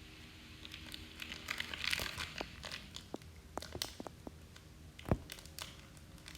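Plastic candy bar wrapper being torn open and crinkled in the hands, a run of sharp crackles, with one louder knock about five seconds in.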